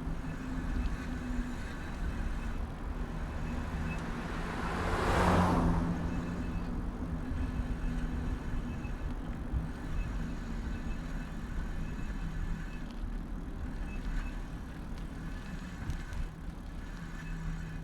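Street traffic heard from a bicycle's handlebar-mounted camera: a steady low rumble of the ride, with one vehicle passing close about five seconds in, its noise swelling and fading.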